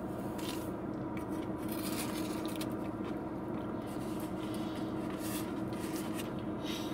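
A person chewing a mouthful of a bacon wrap (tortilla with lettuce and cheese), short chewing noises every second or so over a steady background hum.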